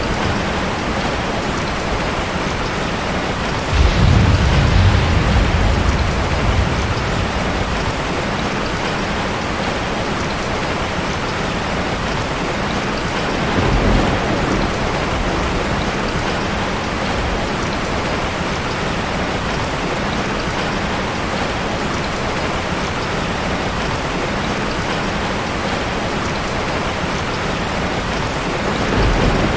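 Heavy rain falling steadily, a dense even hiss of drops hitting surfaces. There is a deeper low rumble about four seconds in lasting a couple of seconds, and a shorter one near the middle.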